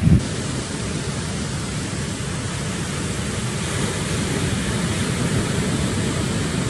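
Steady rushing noise of wind and water on the microphone while surfing, with one loud low bump right at the start.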